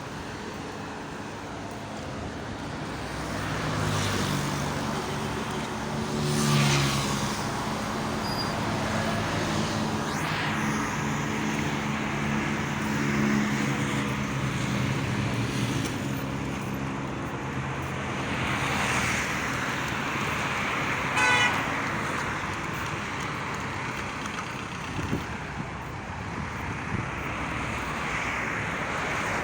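Road traffic on a main road: cars passing close by, their engines rising and fading one after another over a steady hum of tyres. A short, sharp pulsing sound comes about two-thirds of the way through.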